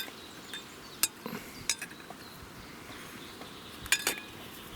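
Sharp metallic clinks and knocks of cookware or utensils, a few single ones about a second apart and a louder double knock near the end.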